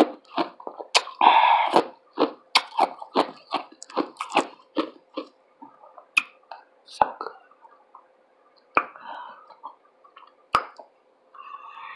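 Close-miked chewing and crunching in the mouth, quick crunches about three or four a second for the first five seconds, then slowing to scattered clicks and smacks.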